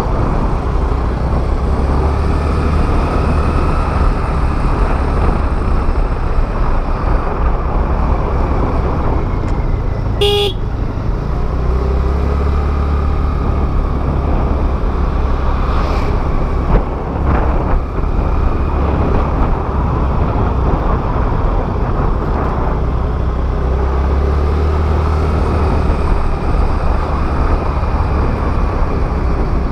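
Riding noise from a motor scooter on the road: wind buffeting the microphone over the scooter's engine. One short vehicle horn toot sounds about ten seconds in.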